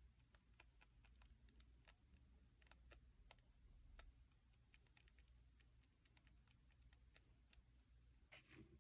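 Faint, irregular light clicks over near silence, with a brief rustle near the end.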